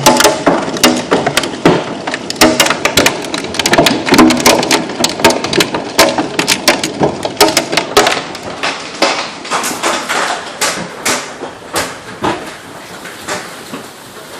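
Heavy hail, the damaging kind, hammering down in a dense, irregular clatter of hard hits over a rain-like hiss, easing off in the last few seconds.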